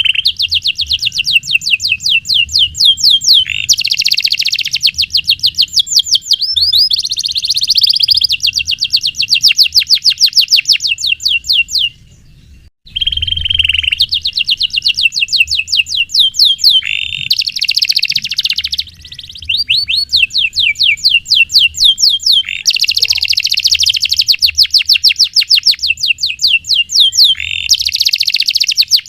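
Domestic canary singing long, tight rolled trills of very rapid repeated high notes, broken by a pause of about a second near the middle.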